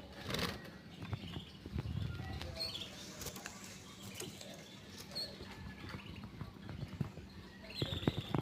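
Canary moving about its cage: light taps, scrabbling and wing flutters, with a few short high chirps now and then.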